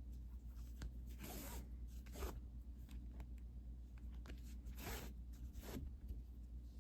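Yarn being pulled through plastic mesh canvas in rasping strokes, two pairs of pulls, over a steady low hum.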